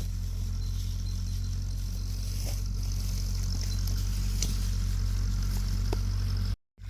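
A steady low drone of a running engine, with a few faint clicks over it. The sound drops out completely for a moment near the end.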